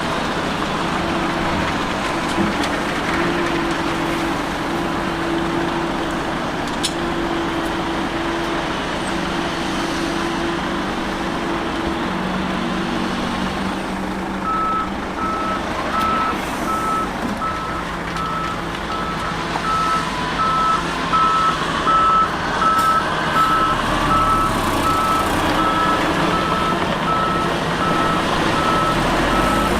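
Heavy diesel earthmoving machinery running steadily. About halfway through, a reversing alarm starts beeping in an even rhythm over the engine.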